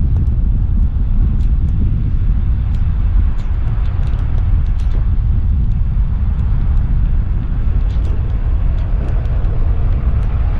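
Steady low wind rumble buffeting the microphone of a camera on a moving road bike, with faint scattered ticks.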